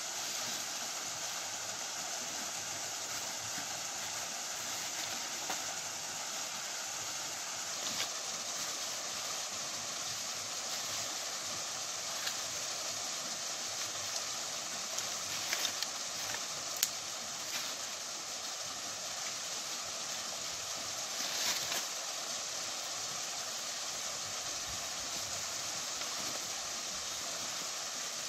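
Steady rush of a waterfall pouring over rocks, with a few faint clicks and knocks scattered through it.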